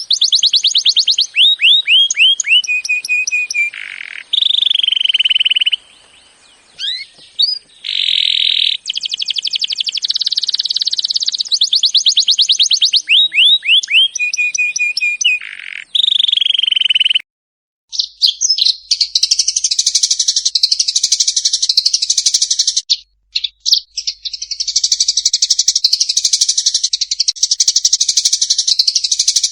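Recorded songbird song: a series of quick downward-sweeping whistled notes and trills that repeats, then, after a brief silence about seventeen seconds in, a different dense, continuous high chattering song.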